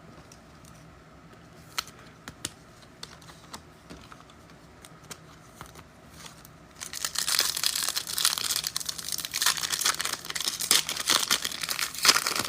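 Faint clicks of cards being handled, then, from about seven seconds in, loud crinkling and tearing as a foil trading-card pack wrapper is ripped open.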